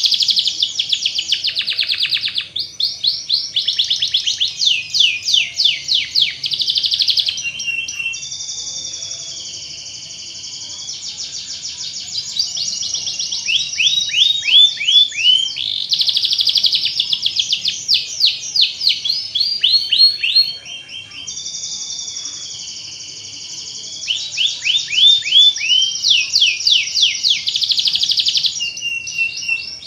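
Domestic canary singing: fast trills of rapidly repeated downward-sweeping notes alternate with steadier, held rolling phrases, the song pattern recurring as a repeated loop. It is played to lure other canaries into singing.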